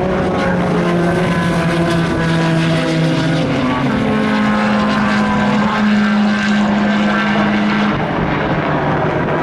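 Several race car engines running together at speed, their drone holding steady notes that step in pitch as the cars shift gear and pass.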